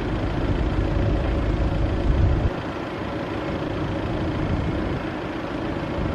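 Vehicle engine idling with a steady low rumble. A heavier low rumble drops away suddenly about two and a half seconds in.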